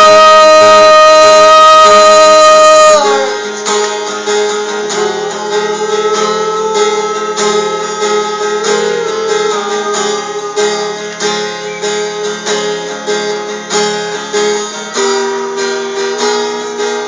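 Music: a loud held note ends abruptly about three seconds in, and an acoustic guitar then plays a picked instrumental passage, quieter, with a steady run of plucked notes.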